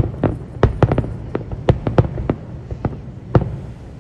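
Fireworks going off, a dozen or so sharp pops and bangs at irregular intervals, the loudest about three and a half seconds in.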